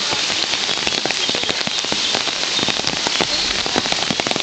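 Steady rain falling, with many close drops landing as quick, irregular ticks over a constant hiss.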